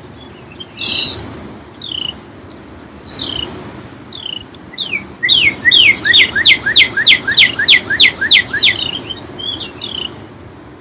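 A songbird singing: single falling whistled notes, then a quick run of about a dozen falling notes, about three a second, in the middle, over a steady low wash of lake waves lapping on the shore.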